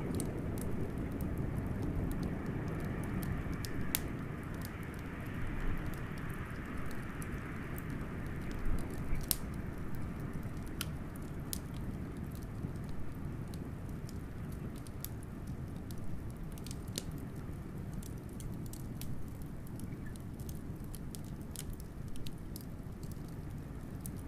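Wood fire crackling with many sharp pops over the steady low rumble of howling blizzard wind; a higher whistle in the wind fades out over the first several seconds.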